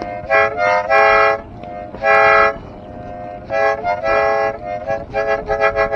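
A multi-tone train whistle on a ride-on Thomas the Tank Engine toy train, blown in a rapid string of chord-like toots. Some toots are short and some last about half a second.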